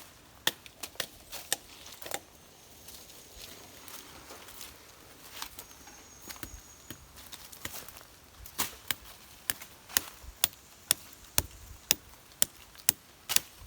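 Sharp chopping blows on a wooden stick. A few scattered strokes come in the first half, then a steady run of about two strokes a second.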